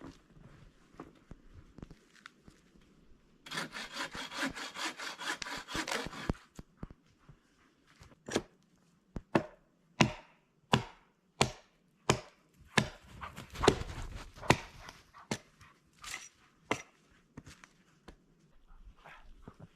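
A hand saw cuts through wood with quick, even strokes for about three seconds. A few seconds later comes a series of sharp chopping knocks on wood, one to two a second, for about nine seconds.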